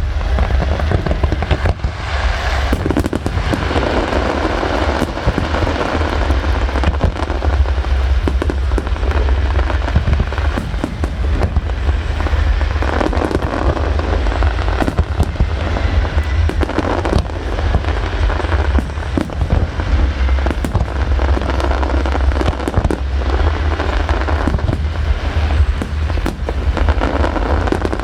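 Aerial fireworks display going off continuously: many shell bursts and crackles in rapid, overlapping succession, with no pauses.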